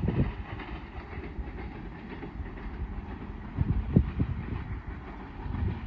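Passenger train hauled by a ZCU-20 (GE U20C) diesel-electric locomotive approaching: engine running and wheels clattering on the rails, with irregular low thumps, the strongest about four seconds in.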